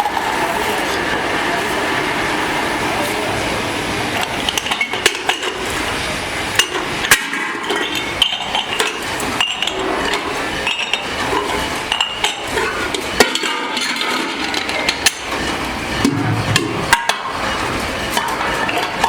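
Metal being struck in a workshop: irregular hammer blows and metallic clinks over a steady machine and shop din.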